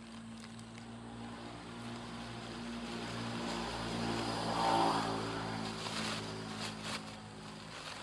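A vehicle passing by, growing louder to a peak about five seconds in and then fading, with a steady low hum underneath.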